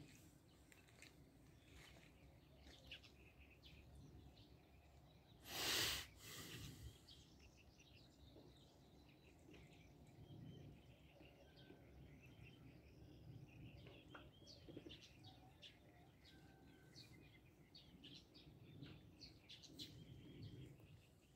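Faint, scattered bird chirps over quiet outdoor ambience, with one brief, louder rush of noise about six seconds in.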